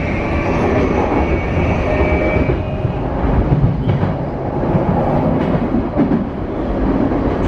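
JR East E235 series 0-subseries commuter train with a Mitsubishi full-SiC VVVF inverter, heard inside the car while running. A steady high inverter-motor tone fades out about two and a half seconds in, over continuous wheel-and-track rumble with a few clicks from the rails.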